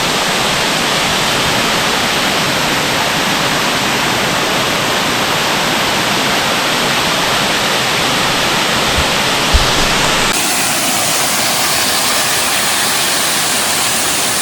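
Waterfall rushing, a steady, even roar of falling water. Just before ten seconds in there is a brief low bump, and then the tone of the rush changes abruptly.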